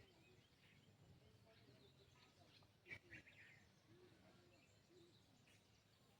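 Faint songbirds chirping: scattered short, high chirps over a quiet background, with a brief louder cluster about three seconds in.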